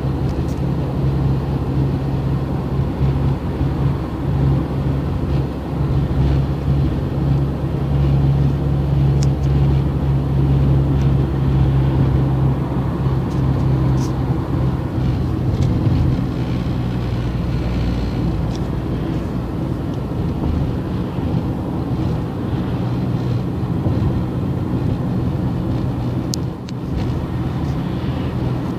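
A car driving along at a steady pace: continuous engine and road noise with a low, even drone.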